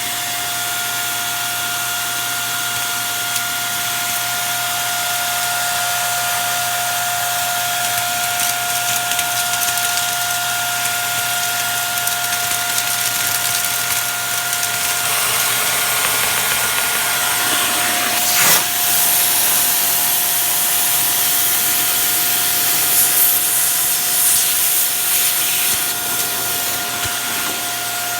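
Shark vacuum cleaner running, a steady motor whine over the rush of air. In the second half the air noise becomes more uneven, with a sharp knock about two-thirds of the way through.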